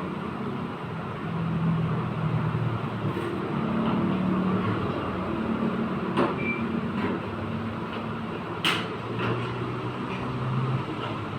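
A motor vehicle engine running with an uneven, shifting pitch. A few sharp metallic knocks cut through it, about six and nine seconds in.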